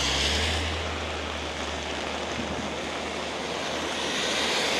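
Heavy monsoon rain falling, a steady hiss of rain. A low rumble fades out in the first second.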